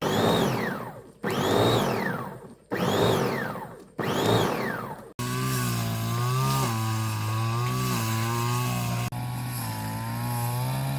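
A small engine revved in sudden bursts about every second and a half, its pitch climbing then falling away each time, then running steadily from about five seconds in with a slightly wavering pitch.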